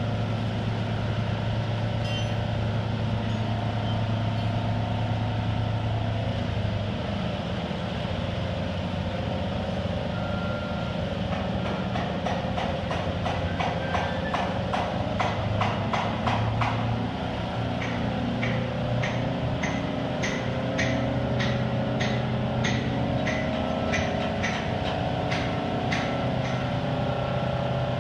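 Detroit Diesel engine of an American Hoist & Derrick 9530 crawler crane running steadily, its pitch shifting a little as it works. Partway through, a run of sharp clicks comes in, quick at first and then about two a second.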